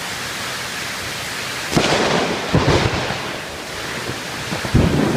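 Steady heavy rain, broken about two seconds in by a sudden close thunderclap that cracks and rumbles for about a second, with another sharp crack near the end. The crack sounds like a rifle shot.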